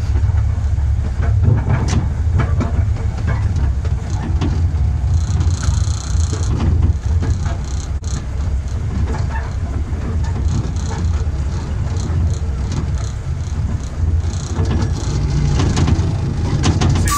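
12-inch-gauge miniature railway train running along the track: a steady low rumble with scattered clicks and knocks as the wheels pass over rail joints and points.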